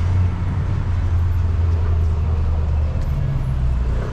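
A motor vehicle's engine running with a steady low hum, over street noise.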